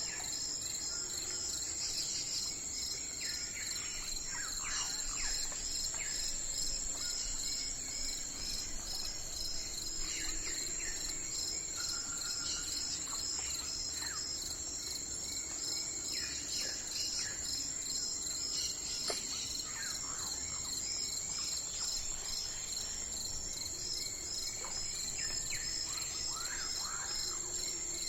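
A steady, high-pitched insect chorus with a regular pulsing, over which short bird calls and chirps come and go.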